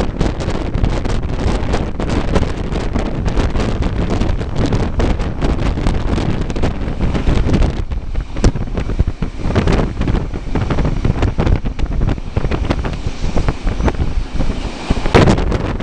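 Wind buffeting the microphone over the steady rumble of a moving passenger train, with a sharp knock near the end.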